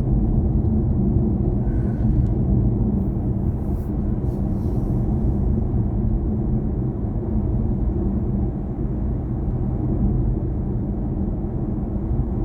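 Steady low road and tyre rumble inside the cabin of a BMW i4 M50 electric car on the move, with no engine note.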